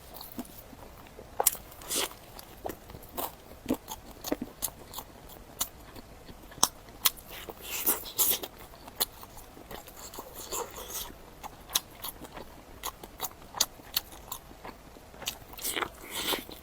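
Close-miked eating: irregular bites and chewing with crisp crunches and wet mouth clicks.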